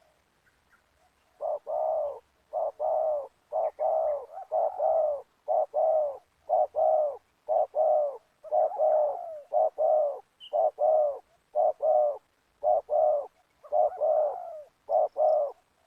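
Spotted doves cooing: a long, rapid run of short, deep coo notes, mostly in twos and threes, starting about a second and a half in.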